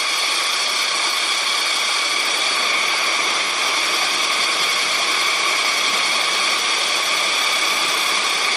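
Steady rush of water pouring down the Sticky Waterfall's limestone cascade, heard from its base.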